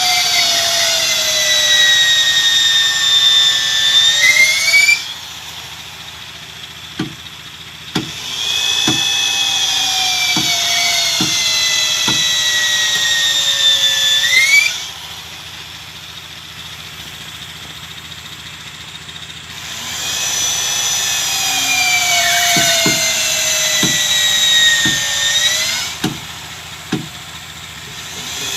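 Handheld electric power tool working wood in three runs of about five seconds, its whine sagging in pitch under load and rising again before it stops. Short light knocks or taps come in the pauses between runs.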